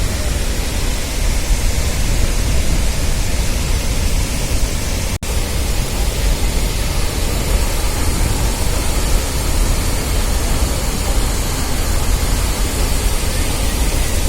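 Steady roar of the Athirappilly waterfall from near its base, a full even rush of falling water that is heavy in the low end. The sound breaks off for a split second about five seconds in.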